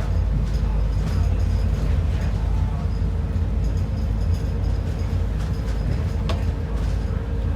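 Inside an ADL Enviro 400 double-decker bus: the engine running with a steady low rumble, a faint steady whine and light rattles, and one sharper click about six seconds in.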